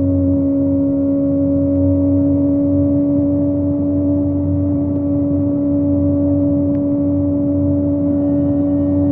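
Kawasaki ZX25R's inline-four engine on a Yoshimura exhaust holding a steady high-revving cruise: one even, unchanging note with no gear changes, over a low rumble.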